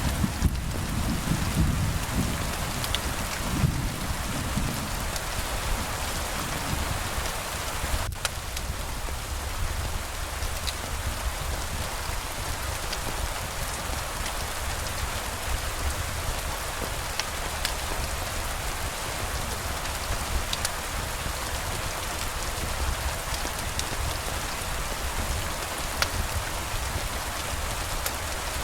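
Steady rain falling, with scattered drops ticking on a hard surface. A low rumble fades out over the first few seconds.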